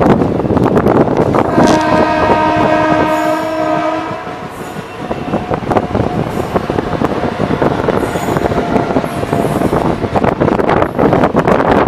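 Indian Railways train running at speed with a steady rush and wheel clatter. A train horn sounds loudly for about two seconds near the start, and a fainter horn tone follows for several seconds.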